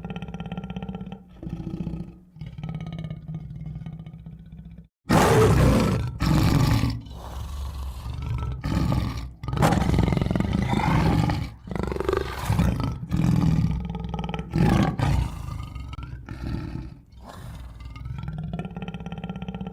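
Tiger growling and roaring. Quieter growls give way about five seconds in to a series of loud roars, which ease back into lower growls near the end.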